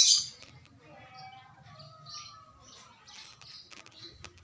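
Birds chirping: one loud, high chirp right at the start, then fainter scattered chirps.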